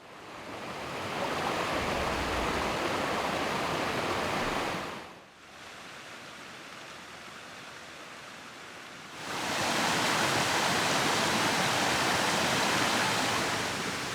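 Steady rushing of river water and rain, fading in at the start, dropping to a quieter wash about five seconds in, then swelling back about nine seconds in to a louder, hissier wash.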